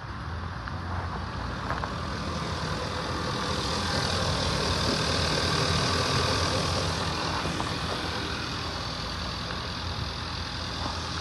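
2013 Hyundai Santa Fe engine running, with a steady low hum that swells gradually louder to about the middle and then eases off a little.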